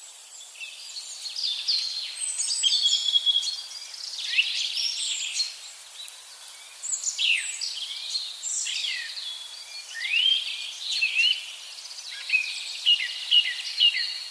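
Several songbirds chirping and singing at once, many short overlapping calls with quick rising and falling notes.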